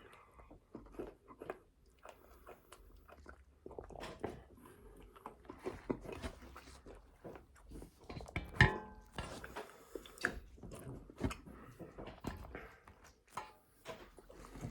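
A person chewing and crunching a frosted animal cookie Blizzard close to the microphone, with irregular small clicks and mouth smacks. One louder short sound comes a little past halfway.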